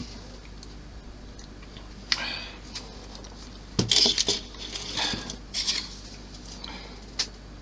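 Small model-kit parts clicking and clattering as they are handled and pressed into place by hand: scattered sharp taps, with a busier run of clatter about four seconds in.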